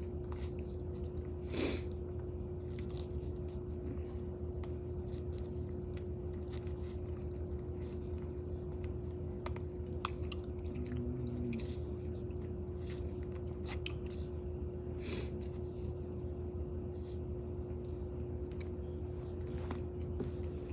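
A person chewing and eating close to the microphone, with scattered short clicks and crunches and one brief louder noise about two seconds in, over a steady low electrical hum.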